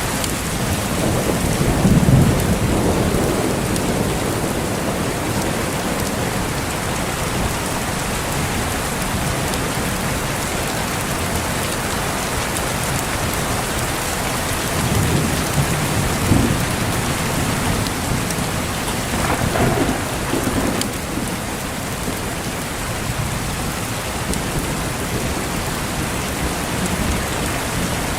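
Steady heavy rain with rolls of thunder: low rumbles swell about two seconds in, again around the middle, and once more a little later, over the constant hiss of the rain.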